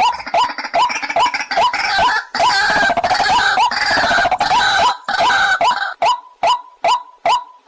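White-breasted waterhen calling: a short note repeated about twice a second, with denser overlapping calling laid over it until about six seconds in.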